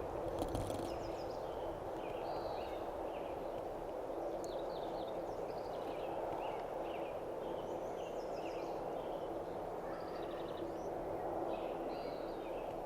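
Small songbirds chirping and trilling in short scattered calls over a steady rushing background with a faint constant hum. There are a few brief clicks in the first second.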